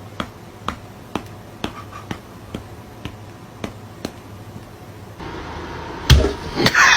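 Sharp, evenly spaced clicks, about two a second, then a heavy thump and a loud burst of noise near the end.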